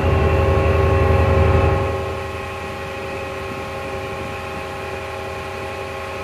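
Passenger train at a station platform: a heavy low rumble that eases off about two seconds in, over a steady hum of several held tones.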